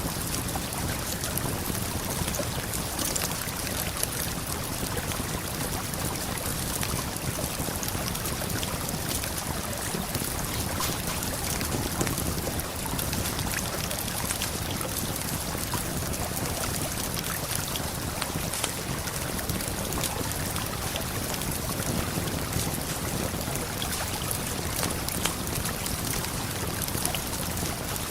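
Steady rush of a waterfall and river, with frequent small crackles and pops from a wood campfire scattered through it.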